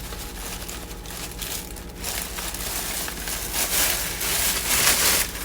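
Powdered sugar bag crinkling and rustling as sugar is shaken out of it to top up a measuring cup. It grows louder about two seconds in and stops abruptly just before the end.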